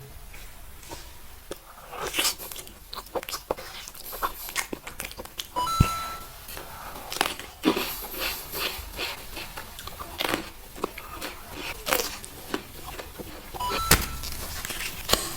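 Close-miked biting and crunching of crisp food: a dense run of sharp crunches and clicks. A short beep sounds twice, about 6 s in and again near the end.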